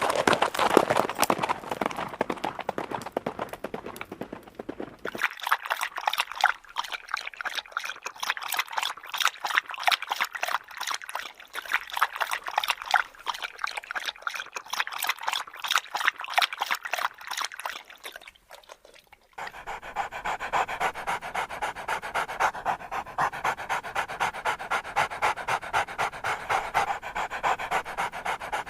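Dog panting in quick, even breaths, several pants a second. The sound changes abruptly twice, about five seconds in and near nineteen seconds, as one panting clip gives way to another.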